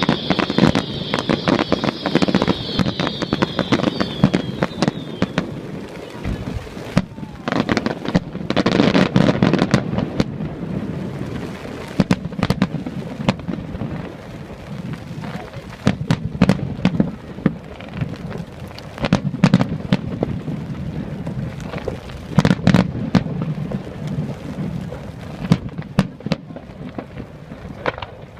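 Fireworks display: a long irregular series of aerial shell bangs, with a dense crackling in the first few seconds.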